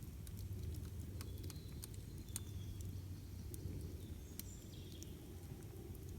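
Campfire burning with irregular sharp crackles and pops over a low steady rumble of the flames, with a few short high bird chirps in the background.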